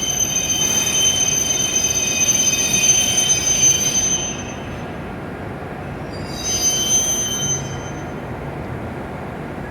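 E7 series Shinkansen train braking as it pulls into the platform: several steady high-pitched squealing tones over a constant running rumble. The squeal fades out about four seconds in and comes back briefly around seven seconds.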